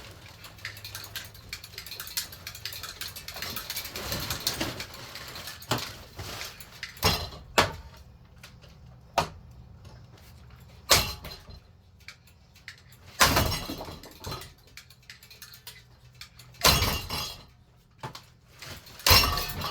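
Golf club hitting a cheap ceiling fan, its blades and parts breaking and clattering. A rattling clatter over the first few seconds, then a string of separate sharp hits, a few of them longer clattering crashes.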